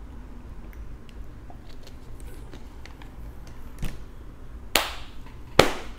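Quiet handling sounds: scattered small ticks, then three sharp clicks or taps a little before four, about five and about five and a half seconds in, the last the loudest.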